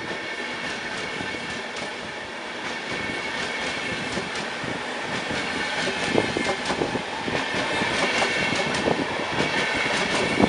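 Long train of Deutsche Bahn Intercity coaches rolling past. The wheels clatter over rail joints under a steady rolling rumble, and the clatter grows louder and busier in the second half.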